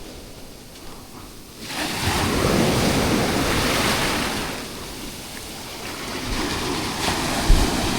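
Sea waves breaking and washing up a sandy beach: a surge of rushing surf about two seconds in that eases off after a couple of seconds, then builds again near the end, with wind on the microphone. A brief thump near the end.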